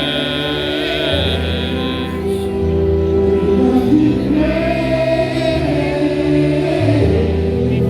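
Slow choral music: a choir singing long, held notes over sustained chords that change every second or two.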